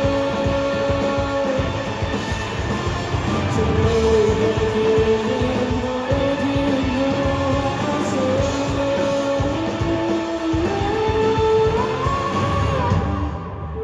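Live indie rock band playing: an electric guitar melody of held notes stepping in pitch, over bass and drums. Near the end the sound thins out and loses its brightness.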